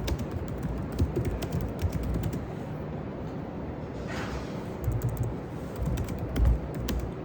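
Scattered light clicks and taps over a low background rumble.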